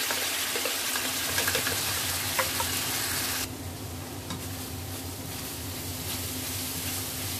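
Blended shallot-and-garlic spice paste sizzling in hot oil in a stainless steel wok, with a few light clicks of the spatula as it is stirred. The sizzle quietens abruptly about three and a half seconds in.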